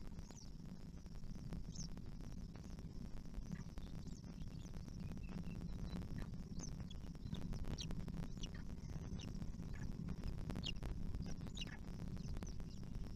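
Birds giving short, high chirps that fall in pitch, scattered at about one or two a second and more frequent in the second half, over a steady low rumble.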